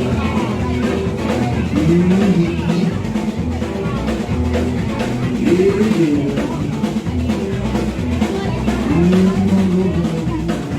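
Live rock-and-roll trio of electric guitar, bass and drum kit playing an instrumental passage with no singing. The drums drive a steady beat, and a sliding melodic phrase comes round about every three and a half seconds.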